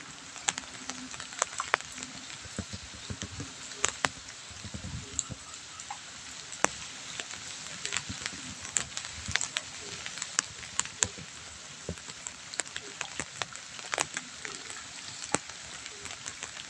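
Light drizzle falling: a steady hiss of rain with many sharp, irregular ticks of single drops landing close by.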